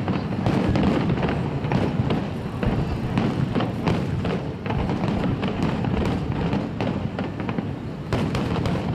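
Aerial fireworks display, with many shells bursting in quick, overlapping bangs and crackles. There is a brief lull about halfway through and a fresh cluster of bursts near the end.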